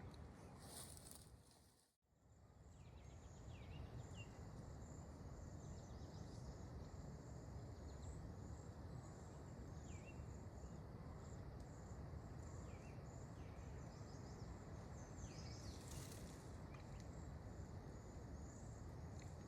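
Faint outdoor ambience: small birds giving short, falling chirps again and again over a steady low rush. It drops out briefly to silence about two seconds in and fades back up.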